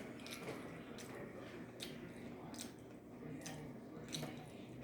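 Close-up mouth sounds of someone eating: soft wet chewing with short, sharp lip smacks and clicks roughly every second.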